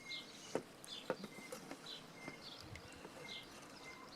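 Small birds chirping faintly, short high calls repeating every half second or so, with a couple of light taps about half a second and a second in.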